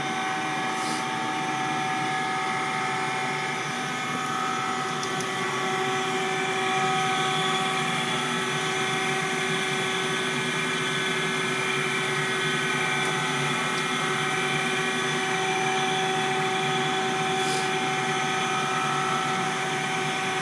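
Schaudt cylindrical grinder running with its 20-inch grinding wheel spinning and the coolant pump on: a steady hum carrying several constant whining tones.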